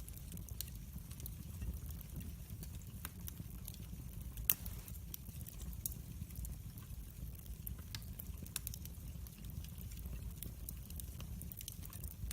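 Wood fire burning in a fireplace: a steady low rumble of the flames with irregular sharp crackles and pops, one louder snap about four and a half seconds in.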